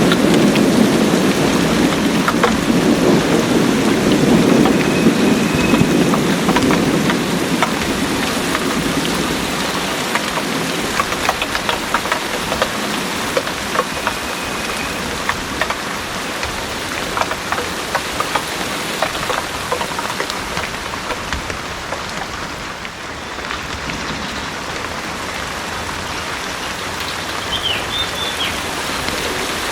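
Heavy rain falling steadily, with the clicks of individual drops striking close by. A low rumble of thunder fills the first several seconds and fades away.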